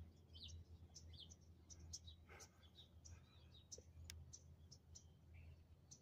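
Faint, scattered chirps of small birds, with a couple of soft clicks.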